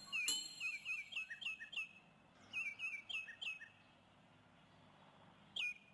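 Bird chirps: a quick run of short, sharp calls, each dropping in pitch, then a few more after a brief gap and a single last chirp near the end.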